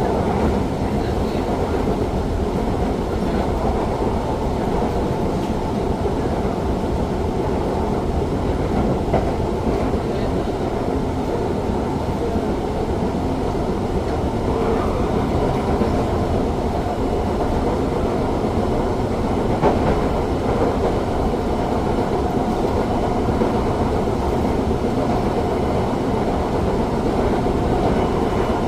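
Cabin ride noise of a Siemens C651 metro train under way: a steady rumble and hiss of wheels on rail with a faint steady hum underneath. There are occasional sharper clicks, the clearest about nine and twenty seconds in.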